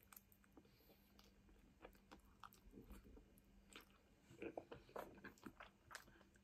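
Faint close-up chewing of a mouthful of noodles: soft wet mouth clicks, with a brief cluster of louder ones about four and a half seconds in.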